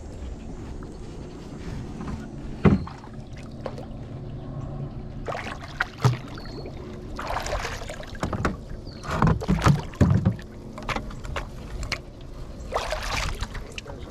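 Knocks and bumps on a small fishing boat: a few hard knocks several seconds apart, with short bursts of rustling or scraping noise between them over a faint steady low hum.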